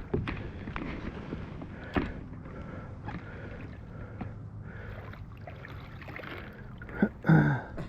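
Water sloshing and gurgling around a kayak, with scattered small knocks and clicks on the hull and gear. About seven seconds in comes one brief, louder sound that falls in pitch.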